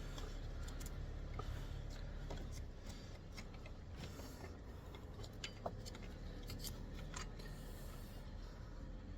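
Scattered light metallic clicks and taps of hand tools being handled, over a steady low hum that drops off about two and a half seconds in.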